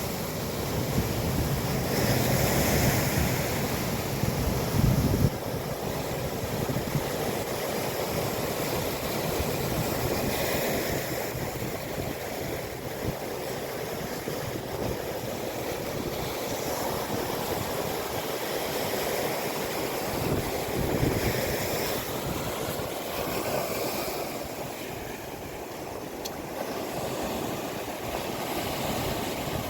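Sea surf washing in a steady rush that swells and eases, with wind buffeting the microphone in a heavy low rumble for the first five seconds, cutting off abruptly.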